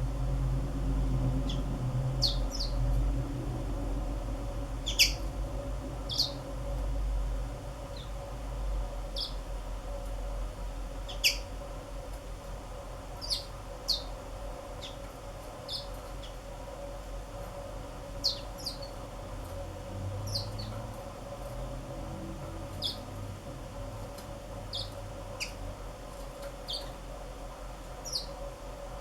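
Black-throated canaries giving short, high chirps, singly or in quick pairs, every second or so, over a steady low hum.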